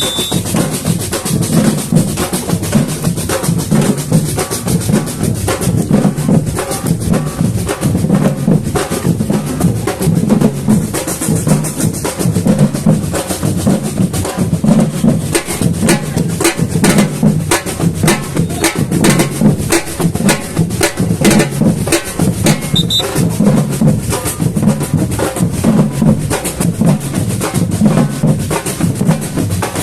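Samba batucada drumming: an ensemble of surdo bass drums, snare and other percussion playing a steady, driving rhythm.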